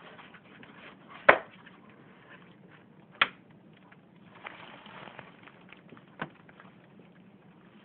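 Power supply unit of a Tektronix TDS8000B sampling oscilloscope ticking: three sharp clicks at uneven intervals over a faint steady hiss, the first the loudest.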